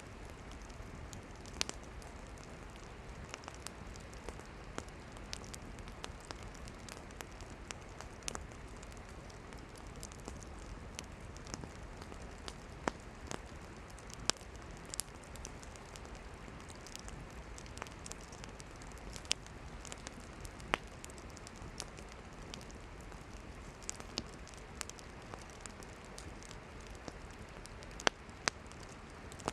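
Wood campfire burning: irregular sharp pops and crackles of firewood over a steady hiss.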